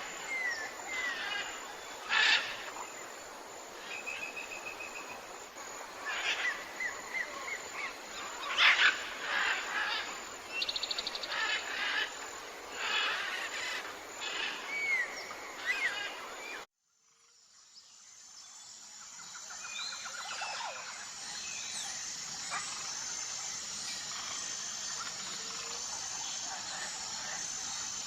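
Tropical forest birds calling, a busy mix of chirps, short trills and falling whistles over a steady hiss. About two-thirds of the way through, the sound cuts out abruptly, and a different forest ambience fades in, with an evenly pulsing high tone and scattered bird calls.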